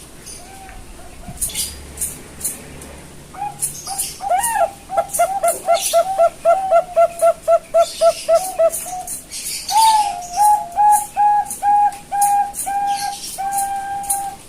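Young Bangkok perkutut (zebra dove) cooing: a fast string of short coos at about four a second, then after a pause a slower series of coos ending on a longer held note.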